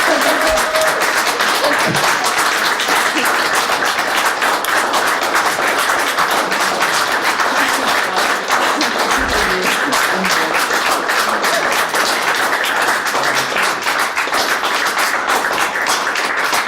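Audience applauding in a hall: a dense, steady clatter of many hands clapping.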